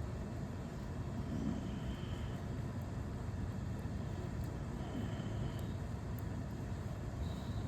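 Steady low rumble of outdoor urban ambience, like distant traffic, with no thunderclap or swell.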